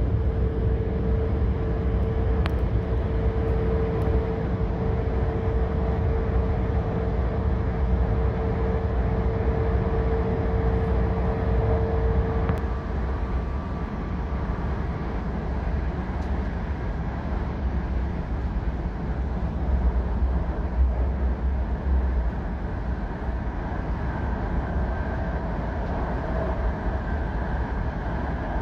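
Cabin noise of an E5 series Shinkansen running through the Seikan Tunnel: a steady, dense low rumble. A steady mid-pitched tone sounds over it until about twelve seconds in, then stops.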